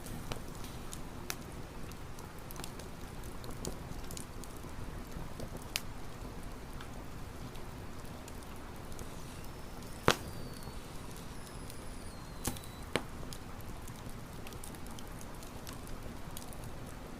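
Wood campfire crackling: scattered sharp pops over a steady soft hiss, the loudest pop about ten seconds in.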